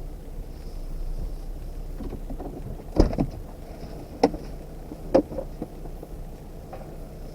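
A vehicle engine running low and steady, with three sharp knocks about a second apart near the middle.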